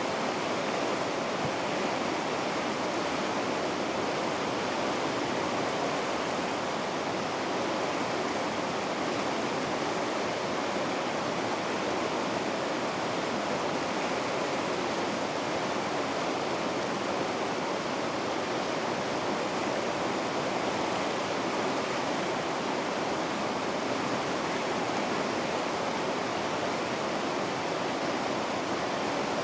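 River rapids rushing steadily, an even unbroken roar of white water with no change in level.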